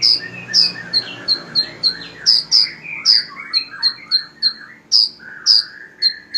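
Small songbirds singing: a rapid series of sharp, high chip notes, about three or four a second, over lower warbled phrases that slide up and down. The song comes from a sunbird training recording with cililin fill-in phrases.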